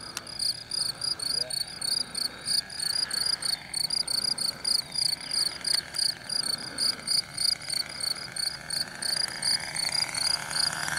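A cricket chirping steadily in a fast, even rhythm of about four to five chirps a second. Under it, the faint, distant drone of the RC plane's nitro engine swells slightly near the end.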